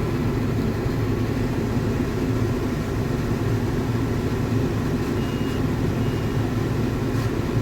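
Diesel engine of farm machinery running steadily, a low even drone as from inside a tractor cab.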